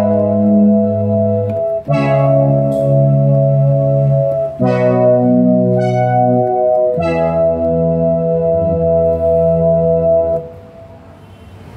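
Yamaha CK61 stage keyboard playing slow held chords, a new chord about every two and a half seconds, until the last chord dies away near the end.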